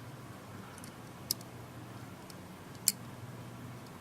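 Two sharp, small clicks about a second and a half apart, with a few fainter ticks, from small tablet parts and tools being handled. A low, steady hum runs underneath.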